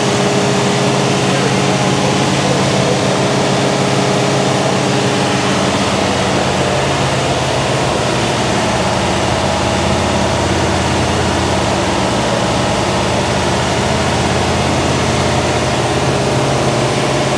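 A freshly built 1967 Chevelle SS 396 big-block V8 running steadily on its first start-up.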